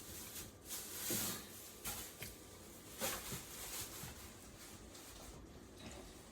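Raw skin-on chicken thighs being placed into a large bowl: several soft, separate wet handling sounds.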